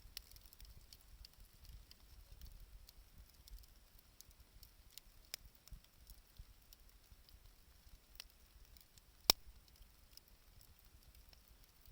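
Wood campfire crackling faintly with scattered small pops, and one much louder snap a little after nine seconds in.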